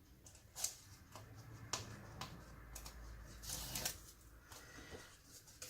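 Card stock being folded and handled by hand: a few short crinkles and taps, with a longer rustle about three and a half seconds in.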